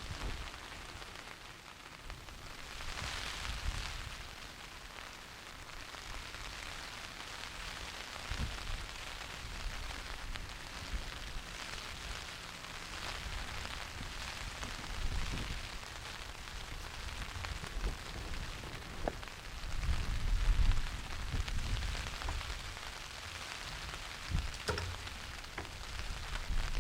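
Steady rain falling and pattering on a surface, with irregular low rumbles coming and going, the loudest about twenty seconds in.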